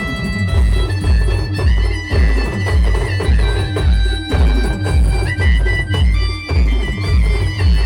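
Live band music in a regional folk style: a reedy, wind-like lead melody stepping from note to note over a heavy, steady bass drum beat.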